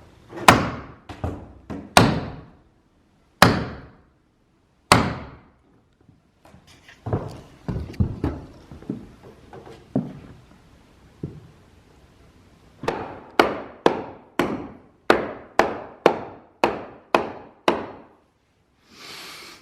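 Hammer blows on wooden framing. Four heavy strikes come a second or more apart, then some lighter knocks, then a run of about a dozen quicker blows at roughly two a second, as supports are driven into place.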